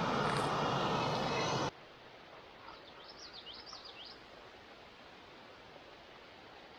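A loud, steady rushing noise cuts off abruptly about two seconds in. Faint, even outdoor hiss follows, with a small bird chirping a quick run of high, falling notes about a second later.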